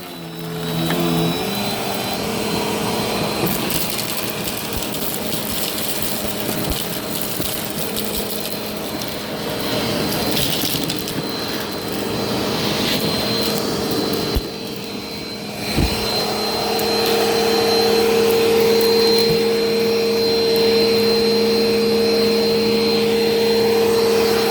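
Vacuum cleaner running, its motor coming up to speed in the first second or two, with scattered crackles as crunchy debris is sucked up. Its sound dips briefly about fifteen seconds in, then it runs steadily and louder.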